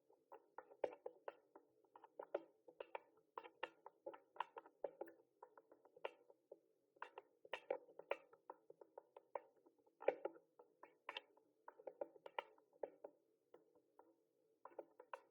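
Typing on a mechanical keyboard: an irregular stream of key clicks, several a second, with a brief pause near the end.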